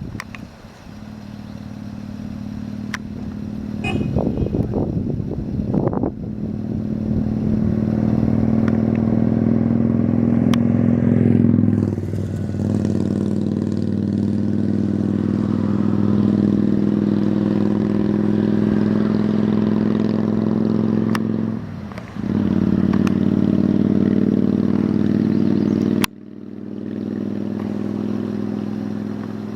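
An engine running steadily at a nearly constant pitch, growing louder over the first several seconds, with brief dips about twelve and twenty-two seconds in and a sudden drop in level near the end.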